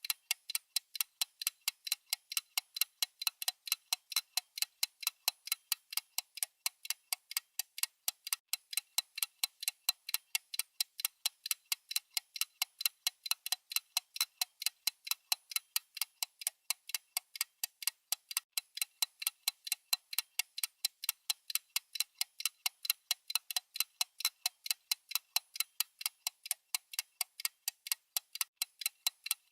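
Clock-style ticking sound effect of a countdown timer: a steady, even run of short, high, thin ticks, several a second, without a break.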